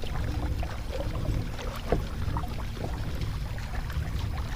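Kayak moving through the water while trolling: a steady low rumble with light knocks and ticks here and there, one a little sharper about two seconds in.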